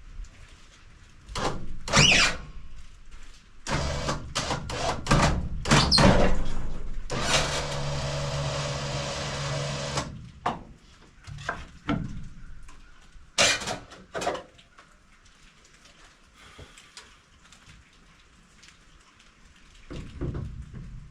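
Clanks and knocks of metal and wood being handled at a bandsaw sawmill, with a machine running steadily for about three seconds in the middle.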